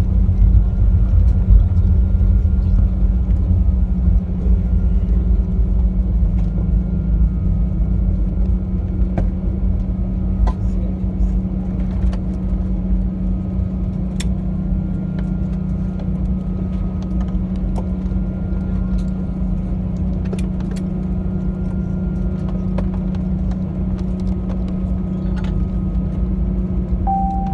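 Airbus A320 cabin noise on the ground after landing: a steady low rumble with a constant hum from the engines at low power, a little louder in the first few seconds, with a few faint ticks. A short steady tone sounds just before the end.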